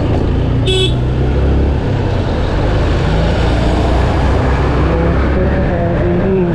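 Yamaha FZ V2's 150 cc single-cylinder engine running steadily under way on a rough gravel road, with constant wind and road rush. There is a brief horn toot about a second in.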